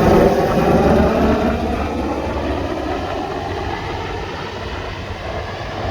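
A passing engine, its pitch sliding down as it goes by and the sound fading away over a few seconds.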